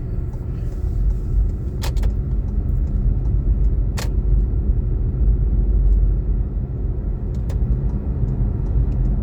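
Car driving, heard from inside the cabin: a steady low road and engine rumble, with a few sharp clicks scattered through it.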